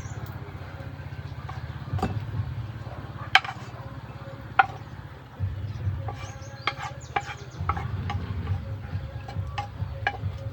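Cooking utensils knocking and clinking against pots and pans: a few single sharp strikes that ring briefly, then a quick run of clinks past the middle, over a steady low hum.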